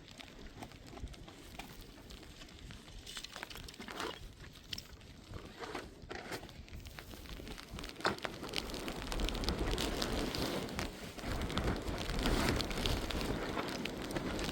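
Rain falling, with scattered crackles and a sharp click about eight seconds in. It grows louder in the second half, with wind buffeting the microphone.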